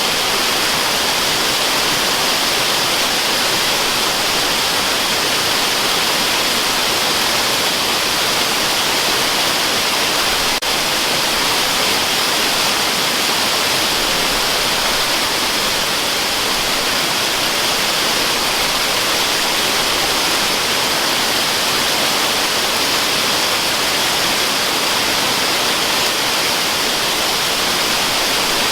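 Steady rushing of a waterfall: an even, unbroken hiss, heaviest in the upper range with little low rumble.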